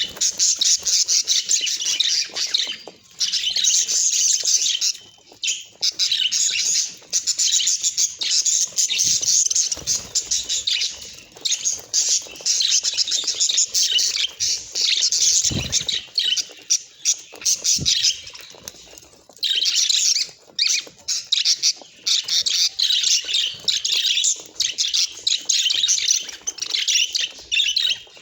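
Budgerigars chattering and warbling: a dense run of rapid, high chirps and squawks with short pauses.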